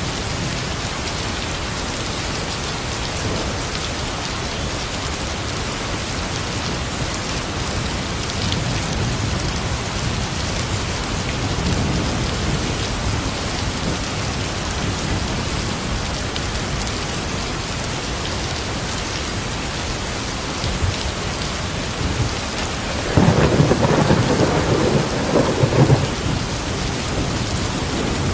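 Steady rain falling, with a faint low rumble of thunder around the middle and a louder rumble of thunder lasting a few seconds near the end.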